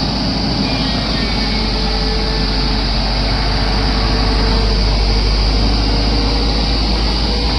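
Heavy vehicle diesel engine running steadily, with a deep low rumble.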